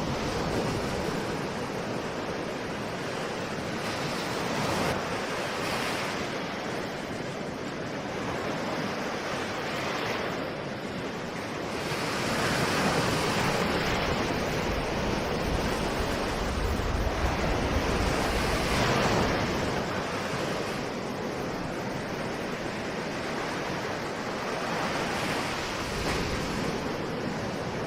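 Ocean surf: waves breaking and washing in with a continuous rush that swells and eases every several seconds.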